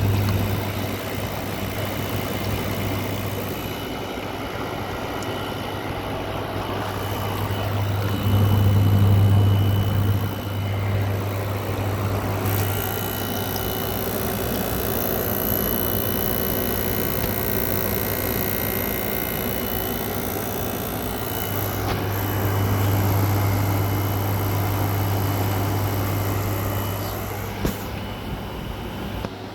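Midea 5,000 BTU window air conditioner running: a steady low compressor hum under the whoosh of the fan and airflow, the hum swelling louder twice.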